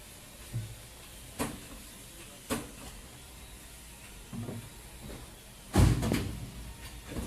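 Blocks of ice being loaded, knocking and thudding against each other and against hard surfaces: a handful of separate knocks, the loudest and heaviest thud about six seconds in.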